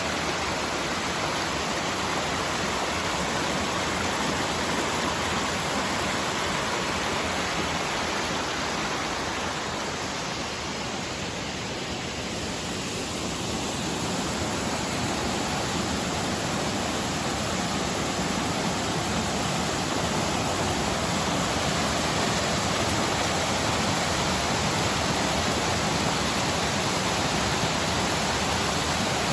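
Waterfall: water falling and splashing in a steady, unbroken rush, dipping slightly in level for a few seconds about a third of the way in.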